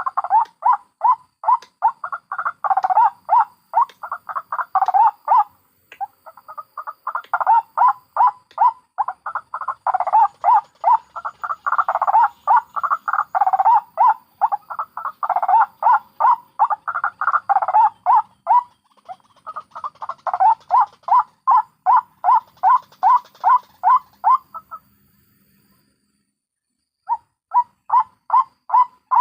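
White-breasted waterhens giving their fast cackling call, a long run of loud croaking notes repeated about three to four times a second. The calling breaks off briefly about five seconds in, stops for a couple of seconds near the end, then starts again.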